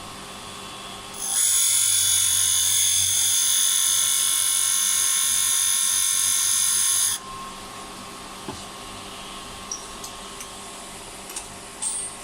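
A small high-speed power tool whining steadily and high-pitched, starting about a second in and cutting off suddenly about six seconds later.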